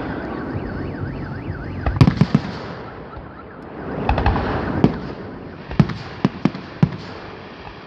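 Fireworks going off: sharp bangs with crackling between them, a cluster of three about two seconds in and several more in the second half. A brief warbling whistle sounds near the start.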